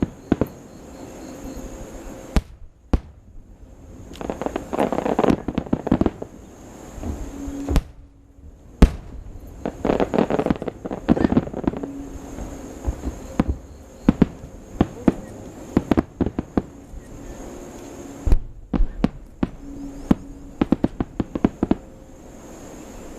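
Fireworks display: sharp bangs and dense crackling bursts in several volleys, with the loudest single bang near the middle.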